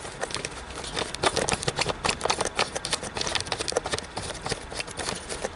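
Handling noise: a quick, irregular run of clicks, taps and rustles as things are picked up and moved around.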